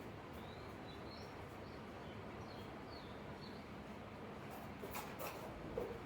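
Faint small birds chirping a few times over steady background noise, with a few soft knocks near the end.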